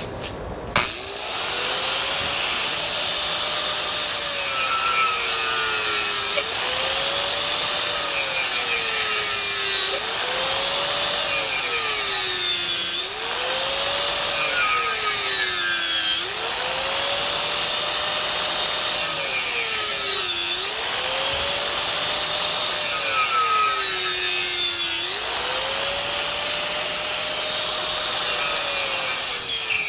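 Electric power tool running under load. Its motor pitch sags as it bears down, then jumps back up every few seconds, while it works at the fan's screws or casing.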